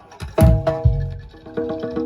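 Live Javanese jaranan dor ensemble playing: deep drum strikes over ringing pitched metal percussion, with a fast run of quick repeated notes in the second half.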